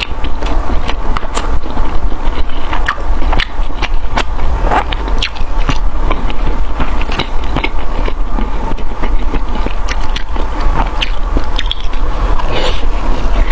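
Close-miked eating: biting and chewing with many short, irregular crunches and crackles, over a steady low hum.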